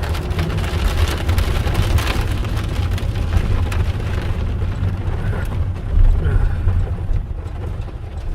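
Rain on a car, with a steady low rumble of wind and road noise underneath; the rain hiss thins out about halfway through.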